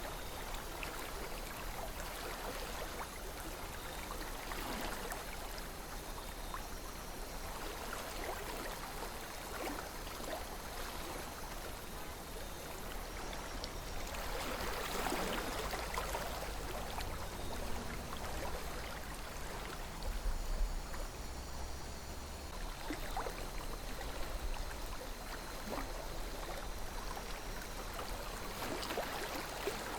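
Calm river flowing: a steady rush of water with small gurgles and splashes coming and going.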